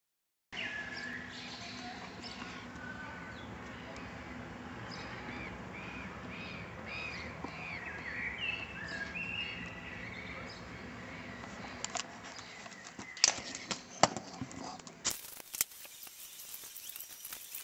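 Songbirds chirping and singing over a steady outdoor hiss. Near the end come a few loud sharp clicks, and then the sound changes to a faint crackling and ticking.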